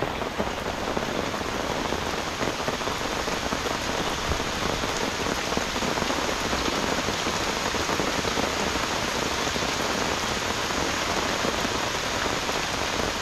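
Heavy rain pouring steadily on and around a tent: a dense, even hiss of a downpour.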